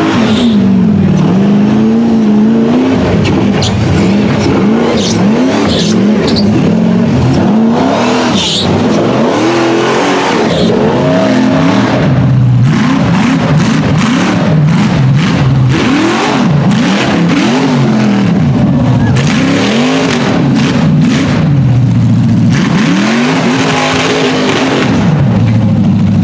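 Off-road racing engines revving hard, their pitch rising and falling again and again as the throttle is worked, with scattered sharp cracks over the top.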